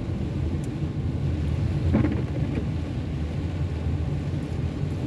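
Car driving in the rain, heard from inside the cabin: a steady low rumble of engine and tyres on the wet road, with a short bump about two seconds in.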